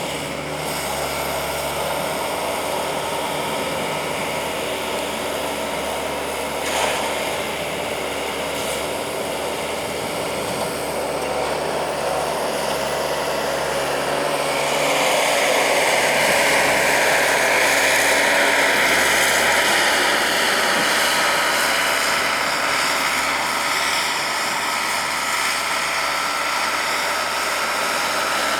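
Vehicle engine running steadily, growing louder about halfway through.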